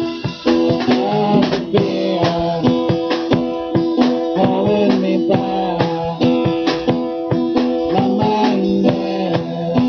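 Live band playing an instrumental passage led by guitar, with drums keeping a steady beat.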